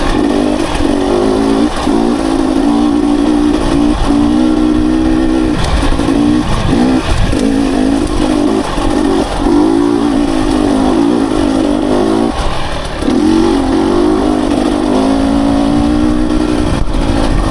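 Dirt bike engine under load on a trail, its pitch rising and falling as the throttle is opened and rolled off, with short drops every few seconds, over heavy wind and riding noise.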